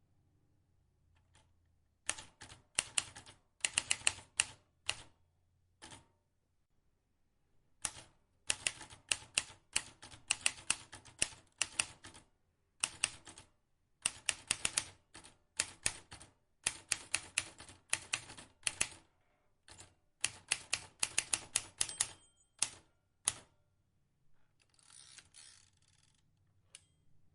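Vintage manual typewriter being typed on: fast runs of sharp key strikes broken by short pauses. Near the end there is a brief softer rasping stretch.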